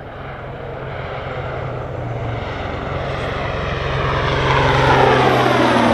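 Super Puma transport helicopter flying a display run in towards the crowd, its rotor and turbine sound growing steadily louder over about five seconds, with a steady low hum beneath a sweeping rush of noise.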